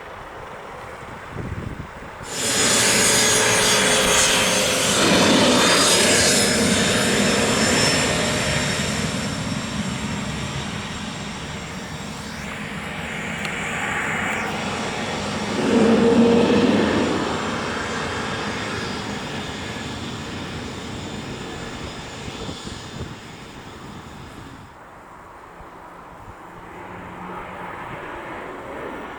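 Twin turbofan jet engines of a departing Cessna CitationJet CJ3+ business jet: a high turbine whine over a jet rush. The sound starts abruptly a couple of seconds in, is loudest early on, fades, swells again about halfway through, and dies down near the end.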